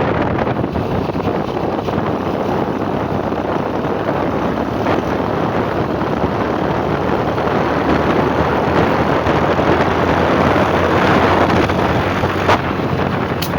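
Wind rushing over the microphone of a moving motorcycle, with the bike's engine running steadily underneath. Two short ticks come near the end.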